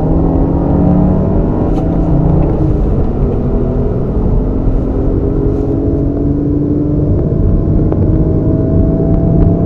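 Car engine under full-throttle acceleration, heard from inside the cabin, its pitch climbing slowly as the speed rises.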